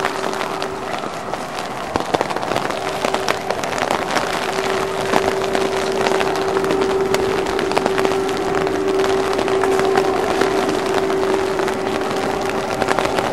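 Heavy snow shower pattering: dense small ticks of wet snow hitting surfaces over a steady hiss, with a steady hum underneath.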